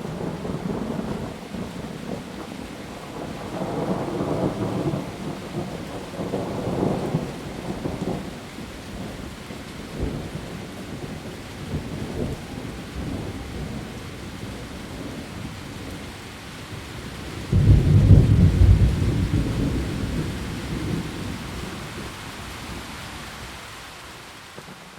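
Heavy rain falling steadily in a thunderstorm. Low thunder rumbles a few seconds in, then a loud thunderclap about two-thirds of the way through that rolls away over several seconds.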